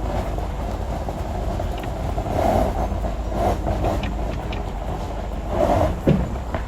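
Pickup truck driving with a boat trailer in tow: a steady low rumble of engine and road noise that swells a few times, with a brief falling squeal about six seconds in.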